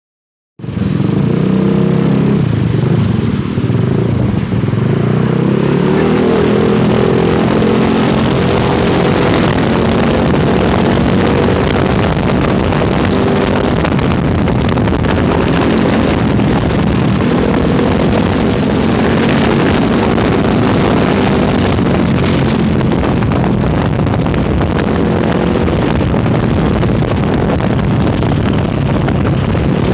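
Honda Spacy scooter's single-cylinder four-stroke engine running through an aftermarket Nob1 racing exhaust while being ridden, its pitch rising and falling with the throttle over a steady rushing noise.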